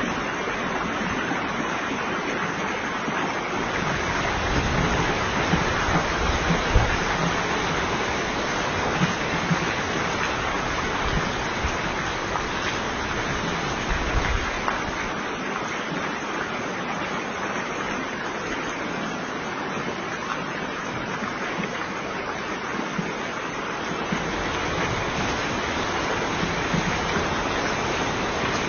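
Steady rush of water from a flash flood, heavy rain and floodwater running in the street. A few low rumbles come through about a fifth of the way in and again near the middle.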